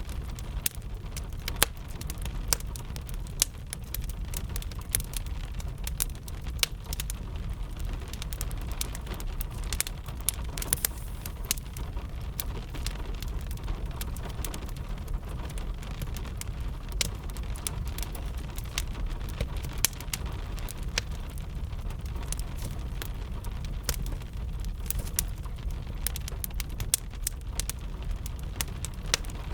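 Wood fire crackling with steady rain: irregular sharp pops and crackles over a continuous rain hiss and low rumble.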